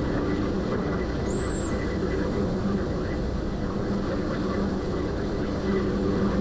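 Ferry's engine droning steadily, with a low hum under it. A brief high squeak sounds about a second in.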